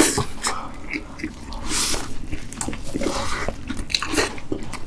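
Hamburgers being bitten and chewed close to the microphone: a string of short sharp bite clicks and mouth noises.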